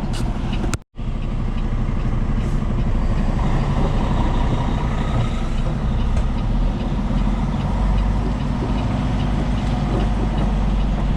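Diesel engine of a Peterbilt 389 semi truck running steadily, heard from inside the cab as a low, even drone. The sound cuts out completely for a split second about a second in.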